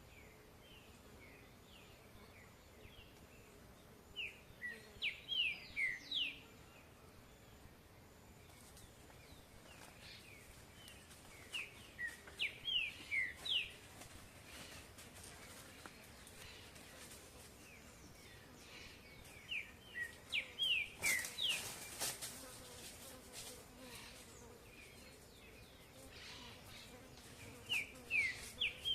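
A songbird singing repeated short bouts of quick, downward-slurred whistled notes, four times, about every seven to eight seconds, over a faint outdoor background.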